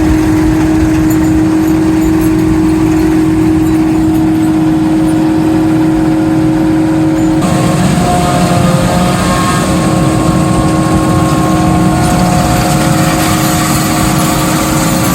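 Tractor engine running steadily at a silage harvest. About halfway through the sound changes abruptly, one steady tone giving way to several higher ones.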